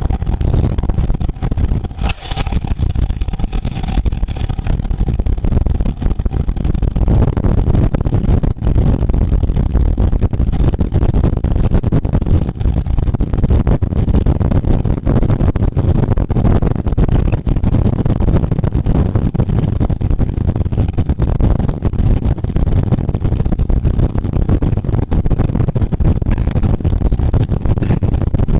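Steady low wind rumble buffeting the microphone of a camera moving at speed during a road bicycle race, with a brief higher tone about two seconds in.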